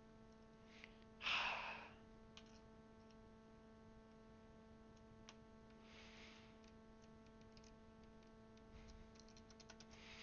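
Quiet room with a steady electrical hum. A breathy exhale comes about a second in, and a few faint plastic clicks follow from keycaps being handled on the mechanical keyboard.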